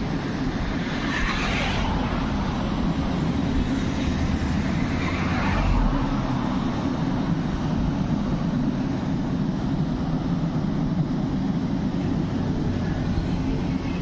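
Steady low road-traffic rumble, with two vehicles swooshing past, about a second in and again around five seconds in.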